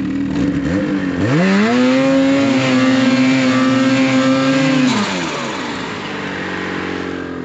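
Gas engine revving up from a steady run, holding a higher even pitch for about three and a half seconds, then dropping back down as a load is pulled.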